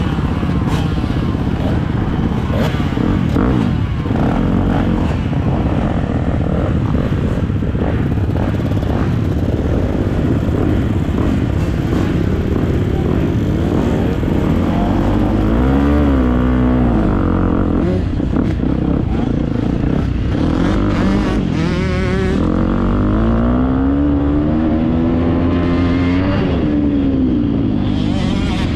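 Motocross dirt bike engine running hard and revving up and down as it is ridden, with its pitch sweeping up and falling back several times, most plainly about halfway through and again near the end.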